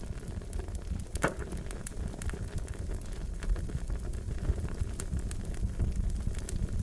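Wood fire crackling: a steady low rumble of flame with scattered pops and snaps, one sharper crack about a second in.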